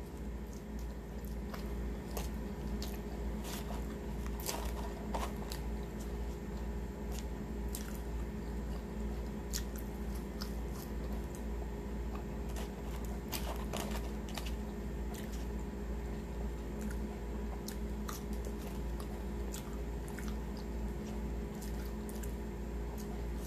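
Close-miked chewing of a pulled pork sandwich, with soft wet smacks and clicks of the mouth scattered throughout, over a steady low hum.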